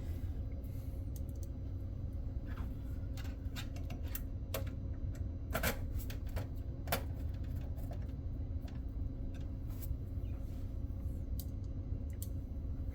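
Scattered light clicks and taps of a screwdriver and small motherboard screws against the metal PC case, as the screws are set in place and driven down; a steady low hum runs underneath.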